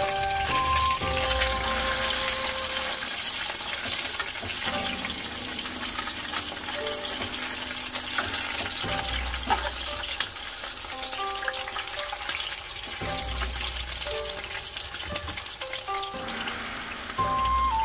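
Chicken frying in hot oil, a steady sizzle full of small crackles, under background music with a clear stepping melody.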